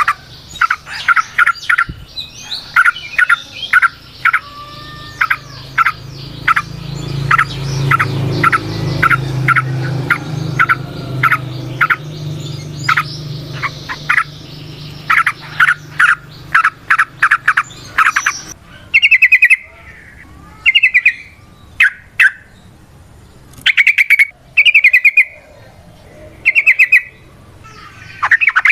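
Yellow-vented bulbul (trucukan) singing: a long run of sharp repeated chattering notes, breaking about two-thirds of the way through into short, separate buzzy bursts with pauses between them. A low hum runs underneath through the middle stretch.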